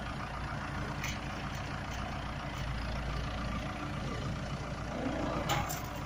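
Backhoe engine running steadily, with a few faint clicks about a second in and near the end.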